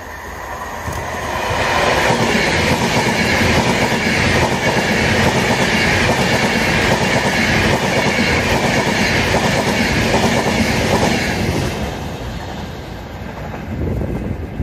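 Avanti West Coast Class 390 Pendolino electric train passing through the station without stopping: the noise of wheels on rails swells over the first couple of seconds, holds loud for about ten seconds as the carriages go by, then dies away near the end.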